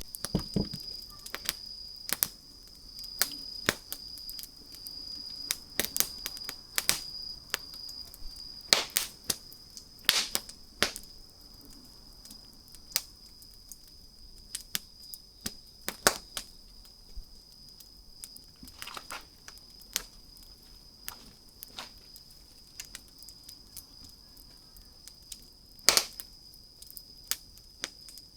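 Wood campfire crackling, with irregular sharp pops and snaps, busier in the first half and sparser later, with one louder pop near the end. A faint steady high whine runs underneath.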